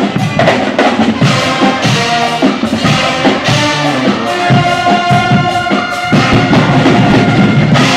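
Guggenmusik band playing loud brass over pounding drums and percussion, with held brass notes in the middle; the piece breaks off right at the end.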